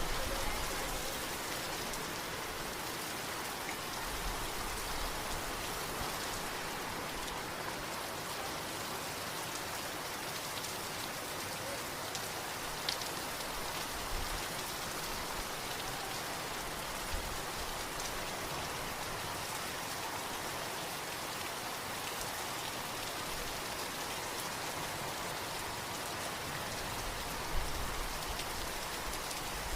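Steady rain falling, with a few louder single drops or drips standing out now and then, the sharpest near the end.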